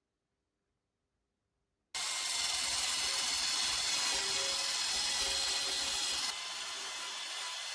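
A power tool running steadily, starting abruptly about two seconds in after silence, a steady high hiss with a few constant tones; it eases slightly in level and loses some of its hiss about six seconds in.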